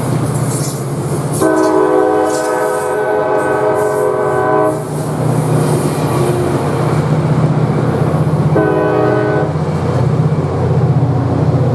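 Locomotive horn sounding one long blast of about three seconds, then a short blast about a second long a few seconds later, over the steady noise of a moving train.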